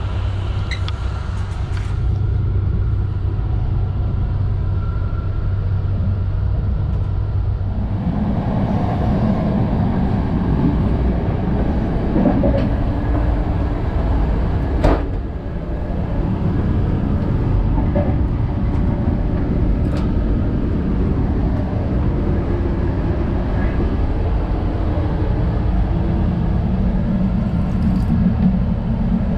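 Running noise of a loco-hauled Trenitalia Intercity train: a steady rumble of wheels on rails that grows fuller about a quarter of the way in. It is broken by a couple of sharp knocks near the middle and later.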